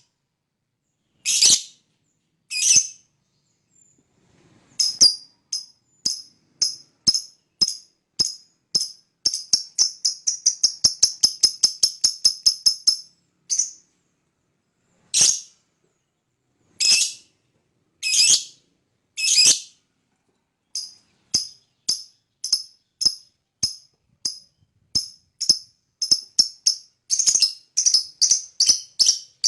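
Lovebird calling: short, sharp chirps that speed up into a fast chatter around ten seconds in. Four longer, harsher screeches follow, then the chirps come again and quicken near the end.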